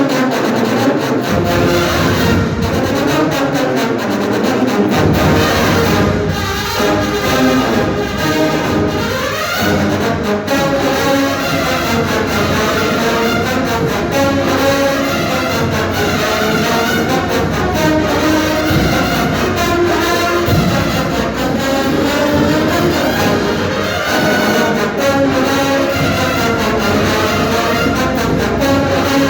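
Marching band playing a piece at full volume, brass to the fore, with steady unbroken sound throughout.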